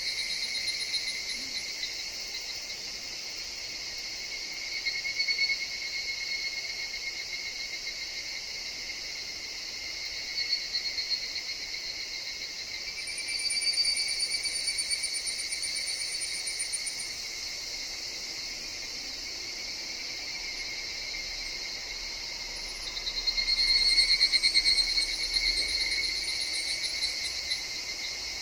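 Higurashi (evening cicadas) calling in overlapping choruses that swell and fade in waves over a steady background of insect song, loudest in a swell near the end. A thin, very high trill comes in twice, around the middle and near the end.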